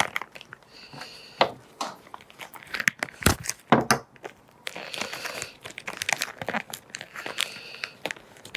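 Plastic packaging crinkling and tearing as new parts are unwrapped, with a few sharp clicks of small parts being handled.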